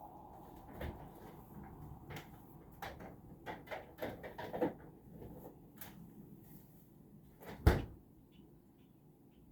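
Kitchen clatter during cooking: a run of clicks and knocks, with one loud, sharp knock near the end.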